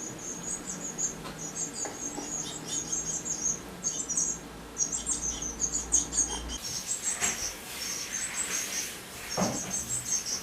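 Blue tit nestlings cheeping in the nest: a steady run of rapid, high-pitched calls, the begging of chicks waiting to be fed.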